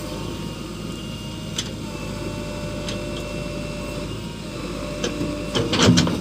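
JCB 3DX backhoe loader's diesel engine running steadily, with a few sharp clicks and a loud burst of knocks near the end.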